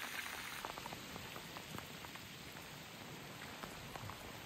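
Steady rain pattering, a soft even hiss dotted with many small drop ticks.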